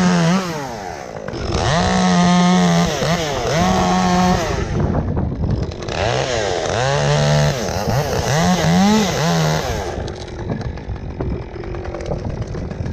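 Chainsaw at full throttle in three bursts, its pitch dipping and recovering as the chain bites, while cutting limbs from a dead tree. About ten seconds in it drops back to a lower, quieter running.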